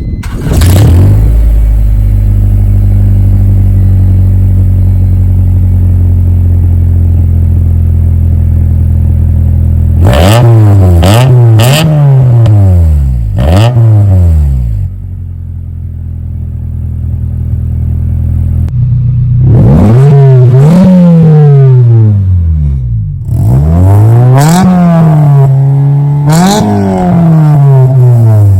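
Acura Integra's four-cylinder engine breathing through a new cat-back exhaust and a K&N cold air intake: it idles steadily for about ten seconds, then is revved in a series of short blips, about seven in all, each rising and falling back to idle.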